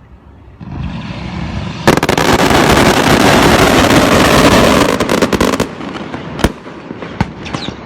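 Fireworks going off: a hiss builds up, then about two seconds in a loud, dense crackling rush lasts for about three and a half seconds. It is followed by three separate sharp bangs near the end.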